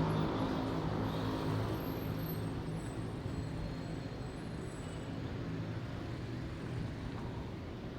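City street traffic: a nearby vehicle's engine runs with a low, steady hum over general road noise, easing off after about three seconds.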